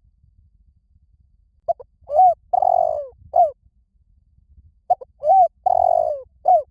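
Spotted dove cooing: two phrases of four notes each, a short note, a rising-then-falling coo, a long held coo and a falling final note, the second phrase starting about five seconds in. This is the calling coo used to stir a decoy dove and draw wild doves in.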